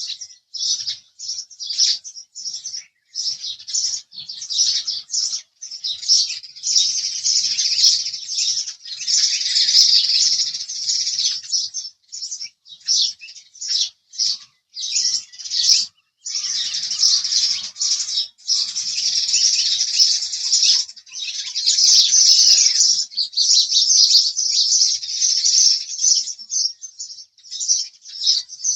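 House sparrow chirping: fast strings of high, shrill chirps in runs of up to a few seconds, broken by short pauses.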